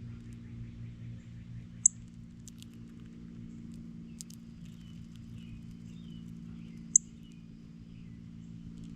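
Small birds chirping softly with short sharp clicks, two of them loud, about two seconds in and seven seconds in, over a steady low hum.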